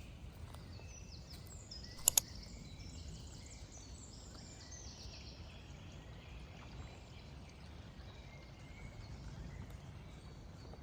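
Songbirds chirping in a forest, a run of quick descending chirps that thins out about halfway through, over a steady low outdoor rumble. Two sharp clicks in quick succession about two seconds in are the loudest sounds.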